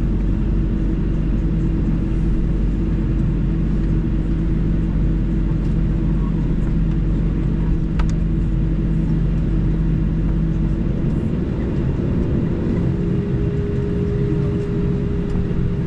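Steady low hum of a parked Boeing 737-900's cabin air and electrical systems. Its tone shifts a little past the middle, and there is one sharp click about halfway through.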